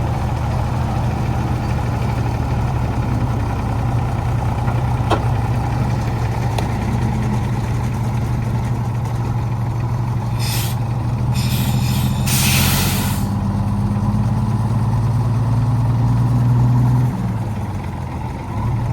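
Old truck engine running steadily under way, pulling harder with a slightly higher note for several seconds after the middle, then easing off near the end. Three short bursts of hiss come about halfway through.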